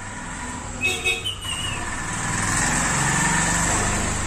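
A motor vehicle going past, its engine noise swelling to a peak about three seconds in and then easing off. A short parrot squawk about a second in.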